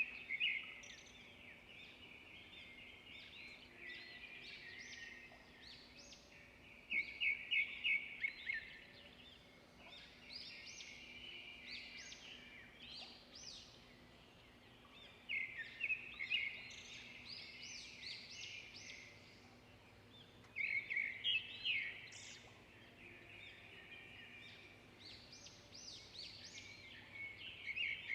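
Songbirds singing and chirping continuously, several voices overlapping, with a loud rapid trill returning every five to eight seconds.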